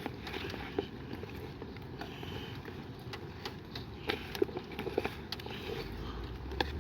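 Light rain: irregular scattered taps of drops over a steady hiss.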